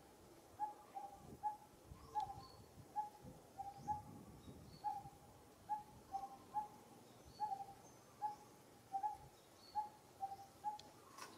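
A bird calling a short, mid-pitched note over and over, about twice a second, with fainter high chirps behind it. A single sharp click near the end.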